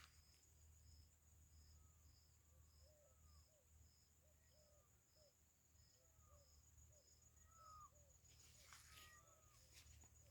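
Near silence with faint insect chirping, a short pulse repeating a little under twice a second over a faint steady high whine, and scattered faint short calls from other small animals. A brief rustle comes near the end.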